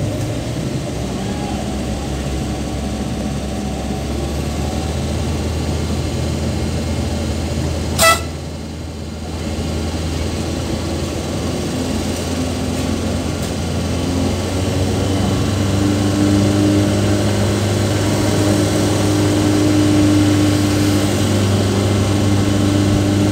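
Suzuki Carry's engine running steadily, heard from inside the cab while driving. A single short horn toot comes about eight seconds in, and the engine note grows louder in the second half.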